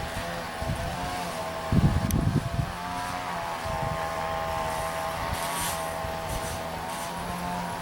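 G-scale model locomotive running on the garden track, its electric motor and gears giving a steady whine that wavers a little in pitch. Wind buffets the microphone about two seconds in.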